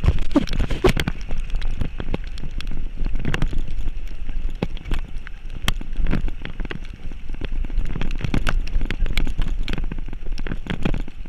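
Vehicle travelling over a rough road in rain, with wind on the microphone: a steady low rumble under many irregular knocks and rattles.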